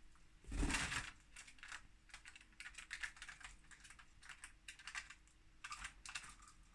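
Budgerigar cracking and husking seeds at its food dish: rapid, irregular light clicks and taps, with one louder knock about half a second in.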